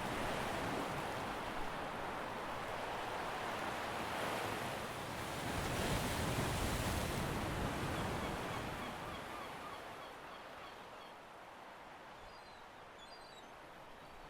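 Sea waves washing, swelling twice around the middle and then fading away, with faint short high chirps near the end.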